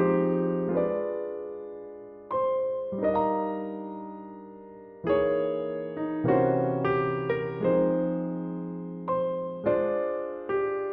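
Slow solo jazz piano playing struck chords every second or two, each ringing and fading before the next.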